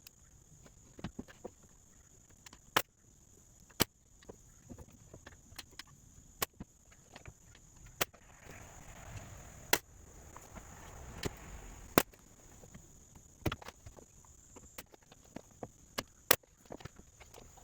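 Woodworking knocks: irregular sharp knocks and clicks of wood strips being handled and fastened to floor joists, spaced a second or more apart, with a soft rustle in the middle and a faint steady high hiss throughout.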